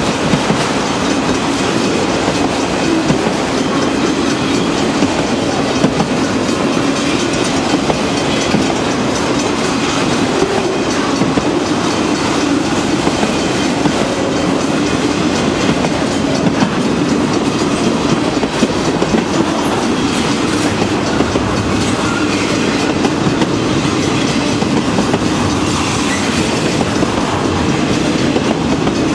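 Freight train cars rolling along the tracks, with a steady, loud rolling noise and frequent small clicks of steel wheels over the rail joints.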